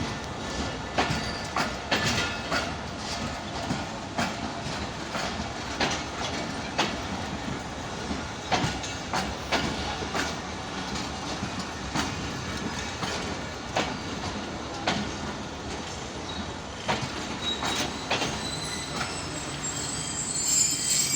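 Passenger train coaches rolling slowly into a station, wheels clacking irregularly over rail joints and points. Brake and wheel squeal rises near the end as the train slows to a stop.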